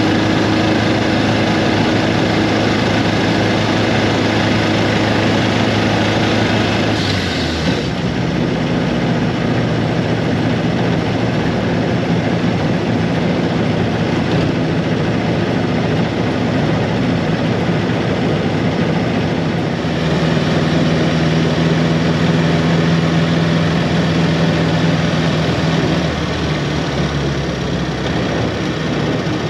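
Austin 7's small four-cylinder engine running as the car is driven, a steady drone whose pitch shifts abruptly about a quarter of the way in, rises again about two-thirds in and drops near the end.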